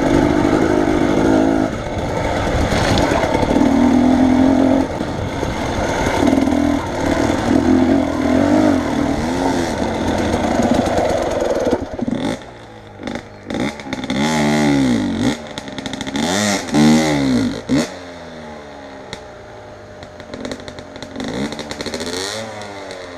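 Vehicle engine working hard off-road for about twelve seconds, then revved up and down in a series of short bursts, easing off towards the end.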